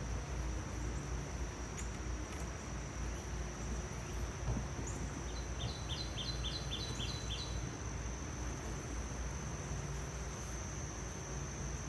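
Honeybees humming steadily around an open hive, with a constant high thin insect whine over it. About halfway through, a bird gives a quick run of about nine short chirps, roughly four a second.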